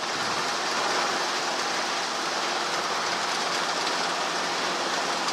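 Steady, even hiss in the helicopter's radio and intercom audio between air traffic control calls, with a faint hum under it.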